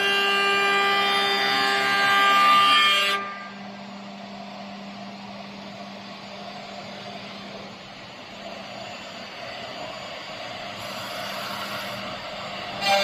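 CNC router spindle whining steadily while cutting, cutting off suddenly about three seconds in and leaving a quieter steady machine hum.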